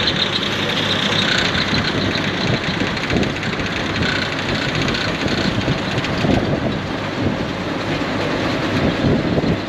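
John Deere 4400 combine harvester running under load, its engine and threshing machinery making a steady, loud mechanical clatter with a fast rattling tick.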